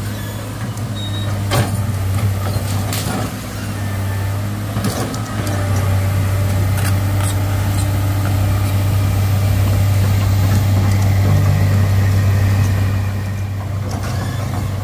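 Heavy diesel engine running steadily, growing louder about five seconds in and easing off near the end, with a few sharp knocks in the first half.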